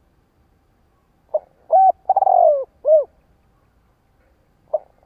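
Spotted dove cooing: about a second in comes one phrase of several short arched coos and a longer, rougher coo that falls in pitch, and the next phrase begins near the end. This is the male's cooing song, here used as a decoy call to stir wild doves.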